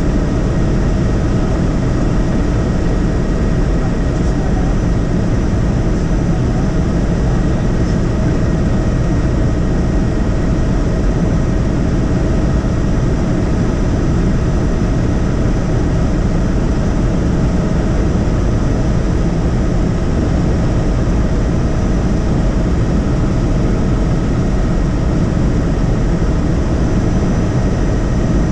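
Helicopter running steadily: a constant low drone of engine and rotor with a few steady high tones over it.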